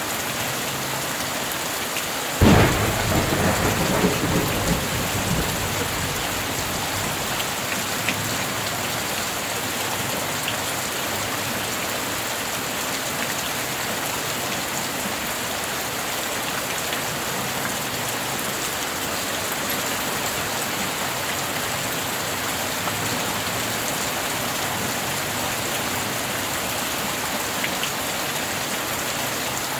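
Steady heavy rain with a sudden thunderclap about two and a half seconds in, rumbling away over the next few seconds.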